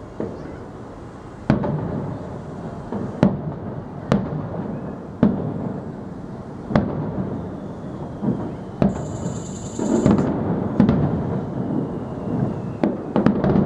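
Aerial firework shells bursting in a series of sharp booms one to two seconds apart, each followed by a low rumble. The booms come in a quick cluster near the end.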